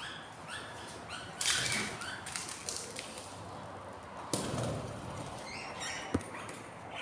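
Budgies chirping in short repeated cheeps, with two brief wing-flapping flutters about a second and a half and four seconds in, and a sharp click near the end.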